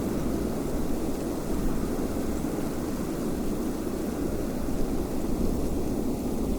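Steady wind blowing, an even low rushing noise without distinct gusts.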